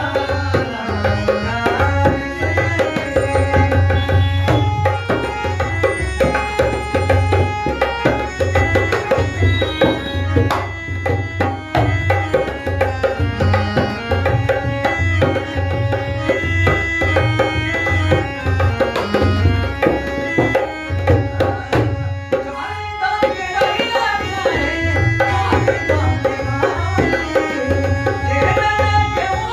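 Harmonium playing a folk-song melody in sustained reedy notes over a steady hand-drum rhythm.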